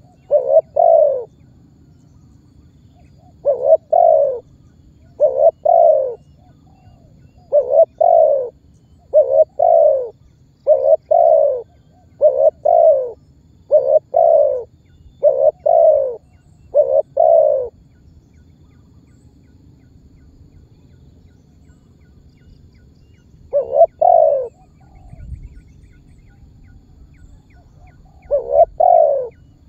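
Spotted dove cooing: a run of short coos, each a quick pair of notes falling slightly in pitch, about one every second and a half, breaking off for several seconds before a few more near the end. A faint low hum lies underneath.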